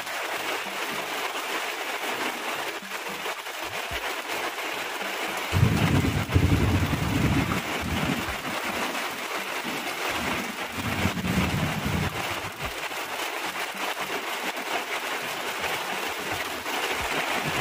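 Rain falling steadily, with a low rumble of thunder that swells about five seconds in and dies away over the next several seconds.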